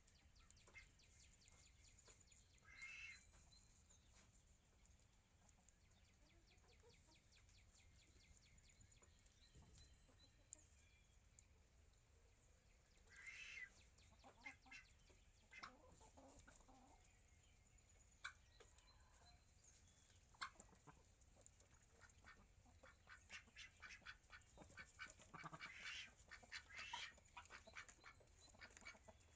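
Faint, scattered bird calls over a low hiss: a couple of short calls, then a run of quick, clicky calls near the end.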